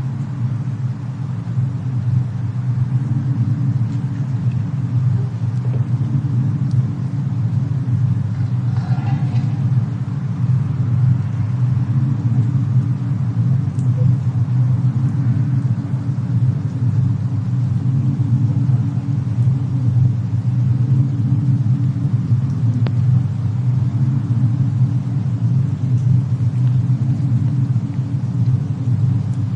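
Steady low rumble of a fireplace-and-snowstorm ambience track, with a few faint crackles.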